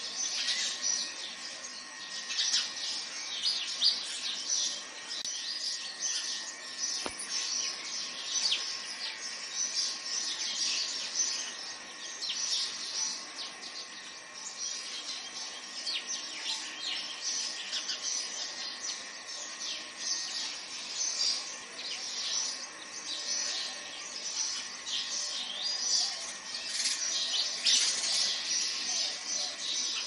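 Birds chirping: a dense, continuous chorus of short, high, overlapping calls.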